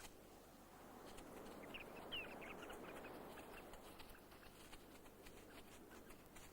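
Turnstones giving a few short, high, descending call notes clustered about two seconds in, faint over a soft steady hiss of beach ambience.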